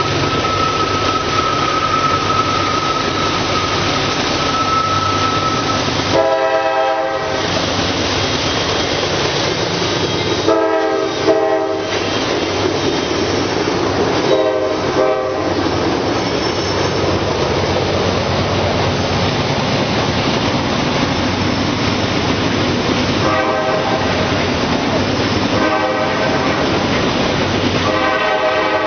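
Freight train rolling past with continuous rail and wheel noise while a diesel locomotive's air horn sounds a series of blasts, some long and some short, about six in all. A steady high whine runs under the train noise for the first six seconds.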